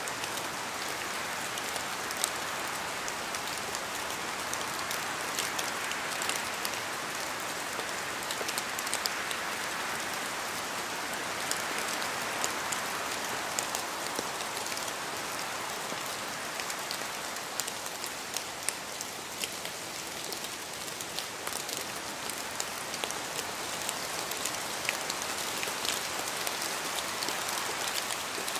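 Steady rainfall, an even hiss with many individual drops ticking on a hard surface.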